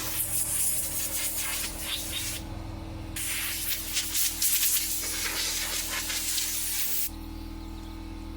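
Compressed-air blow gun hissing in two long blasts, with a short break about two and a half seconds in, blowing sawdust off a table saw; the air cuts off about seven seconds in. A steady low hum runs underneath.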